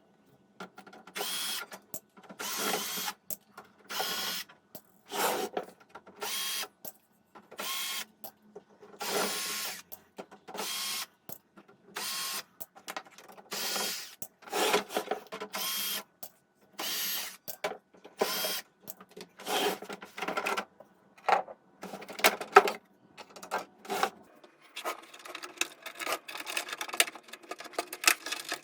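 Hand-tool work on a stereo unit during its restoration, in short scraping and rattling bursts about one a second with silence between.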